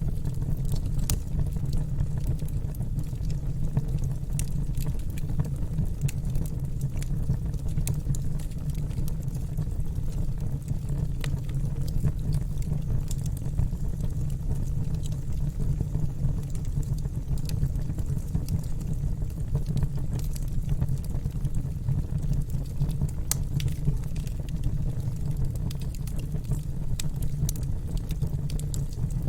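Wood fire crackling in a fireplace: scattered sharp pops and snaps at irregular moments over a steady low rumble of the burning fire.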